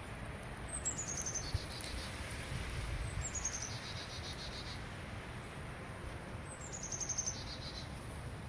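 A night insect, cricket-like, calls three times at a few seconds' spacing. Each call is a quick falling run of high ticks followed by a short pulsed trill. Underneath is a faint low background rumble.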